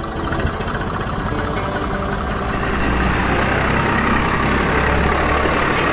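Landini 5000 tractor's Perkins three-cylinder diesel engine running, growing louder about three seconds in.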